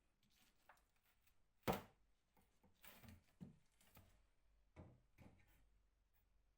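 Faint, scattered light knocks and clunks, one sharper knock a little under two seconds in and a few softer ones after it.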